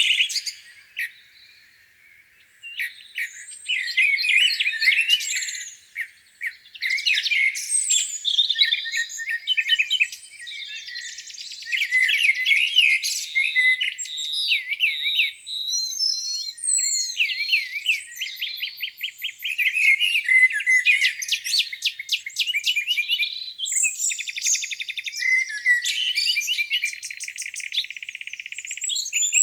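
Several songbirds singing at once, overlapping chirps, trills and rapid repeated notes, with a short lull about one to three seconds in.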